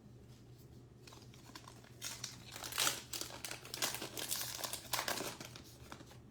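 Wrapper of a baseball card pack crinkling and crackling as it is torn open and handled, from about two seconds in until about five seconds.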